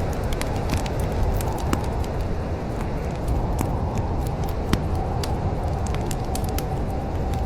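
Wood fire crackling in a fireplace: many sharp, irregular pops and snaps over a steady low rumble of burning flames.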